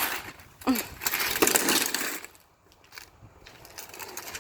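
Sidewalk chalk scraping and grinding on a concrete driveway in a run of scratchy strokes lasting about a second and a half, then going quiet.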